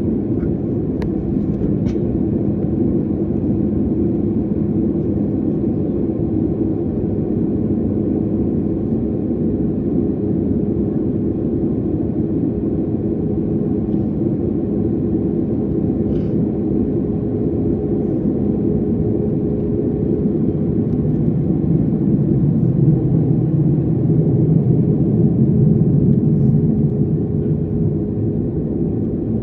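Steady rumble of jet engines and airflow heard inside an airliner's cabin, with a low hum that swells louder for several seconds near the end.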